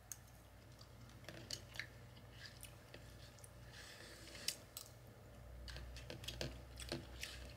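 Faint close-up chewing of a mouthful of food, with soft mouth clicks and a few light taps of a plastic fork against a paper plate.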